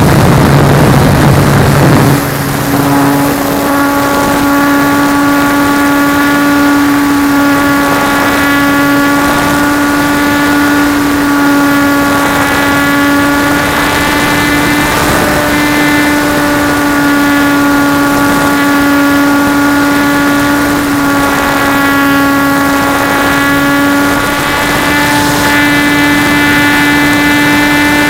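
Trojan T-28 RC model plane's motor and propeller, heard from a camera mounted on the plane. For about two seconds there is a low hum with a rush of noise, then the pitch jumps up to a steady, higher whine that holds with small dips as the throttle is opened for flight.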